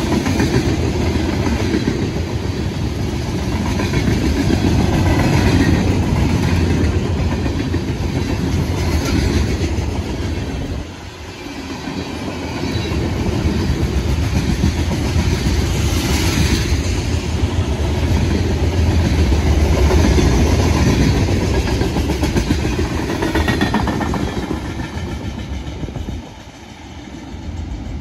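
A CSX freight train's cars roll past on the track with a steady rumbling rail noise. The noise dips briefly about eleven seconds in and again near the end.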